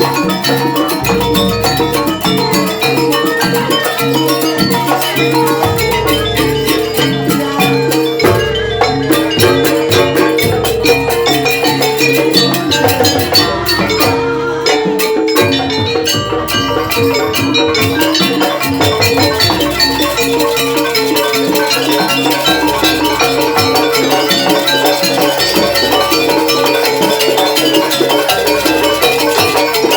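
Jaranan gamelan ensemble playing loudly: clanging tuned metal percussion over a driving drum pattern and low gong strokes.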